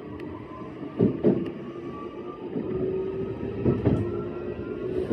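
E131-series electric train running, with a steady motor whine under the wheel and rail noise. Pairs of sharp wheel clicks over rail joints come about a second in and again near four seconds in.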